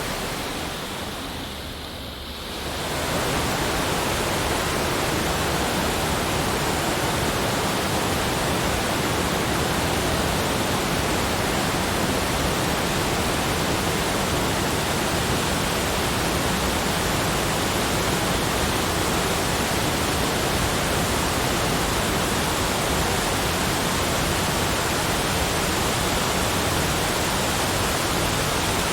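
Steady, even rushing noise spread across all pitches, like a continuous waterfall or pink noise, with no distinct events; it dips briefly in level about two seconds in, then comes back and holds steady.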